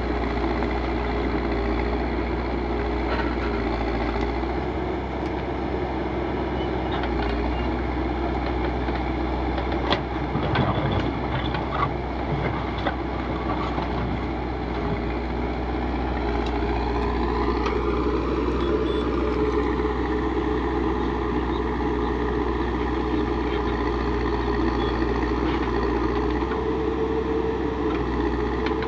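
Backhoe loader's diesel engine running steadily. A few sharp knocks come about a third of the way in, and the engine revs up and settles back about two-thirds through.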